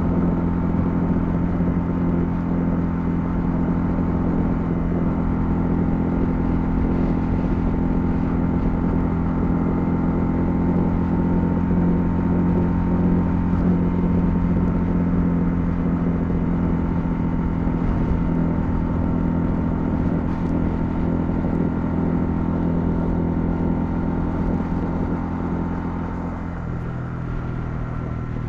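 Honda CL250's single-cylinder engine running at a steady cruising speed, with road and wind noise. Near the end the engine note suddenly drops lower as the throttle is eased off.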